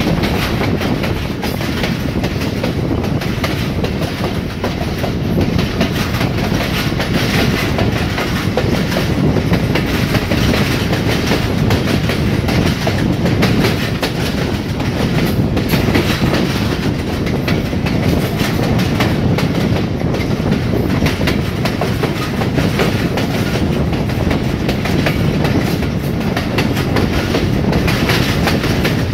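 Pakistan Railway train running on branch-line track, its wheels clattering over the rails in a steady clickety-clack with constant rattling. The track is rough enough to set the coach shaking.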